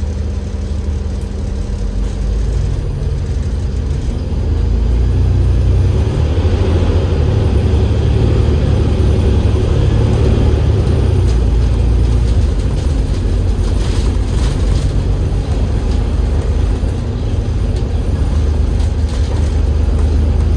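Diesel engine of an Alexander Dennis Enviro500 MMC double-decker bus, a Cummins L9E driving a ZF Ecolife automatic gearbox, heard on board. A low steady tone drops away about two and a half seconds in. The engine grows louder about four seconds in and keeps running hard.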